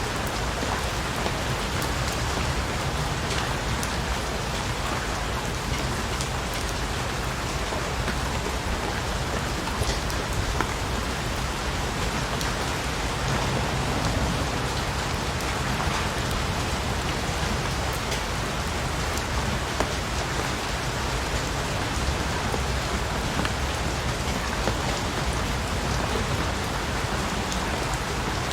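Steady rain falling on a surface, a continuous even hiss with a scatter of individual drop ticks.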